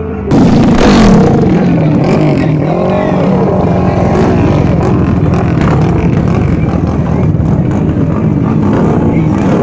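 Racing motorcycle engines at high revs, cutting in suddenly just after the start and staying loud, their pitch sliding down and up as they rev and accelerate.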